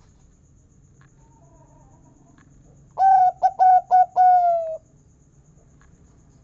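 Zebra dove (perkutut) singing one cooing phrase about three seconds in: a few short clipped notes followed by a longer, slightly falling final note, the big 'kung' prized in a masteran perkutut.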